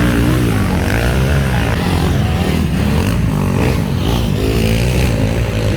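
Motocross bikes racing on a dirt track, their engines revving up and down so the pitch keeps rising and falling.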